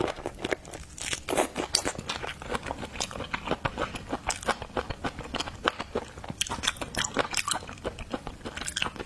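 Close-miked mouth sounds of someone eating a shrimp seafood salad: rapid, irregular crunchy and wet clicks of biting and chewing.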